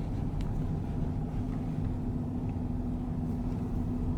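A car moving slowly, heard from inside its cabin: a steady low rumble of engine and tyres with an even hum.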